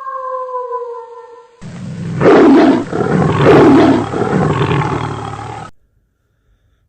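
A held musical note fades out, then a loud animal roar sounds, swelling twice before it cuts off suddenly.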